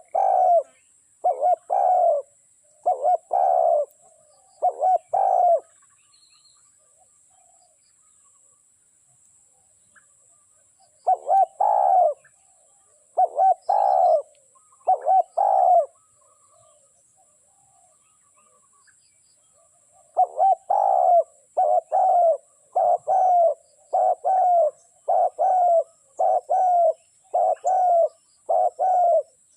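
Spotted dove cooing in three bouts of repeated short coos, with a rest of several seconds between bouts and a long run of coos in the last bout. A faint steady high hiss lies underneath.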